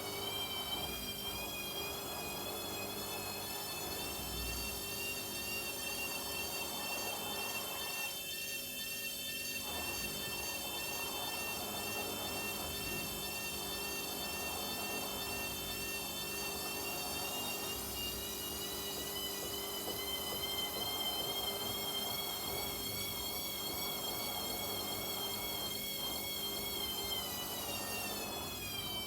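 Washing machine drum motor whining during a spin, high-pitched and slightly wavering over a steady hum. The pitch climbs slowly, holds, then falls near the end as the spin winds down.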